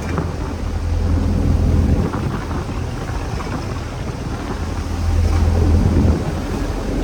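Wind buffeting the microphone on a boat out in rough, stormy sea, with a steady low rumble underneath that swells and eases.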